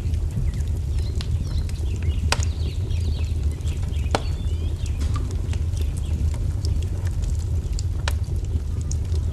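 Wood fire crackling, a steady low rush broken by scattered sharp pops, with birds chirping faintly in the background.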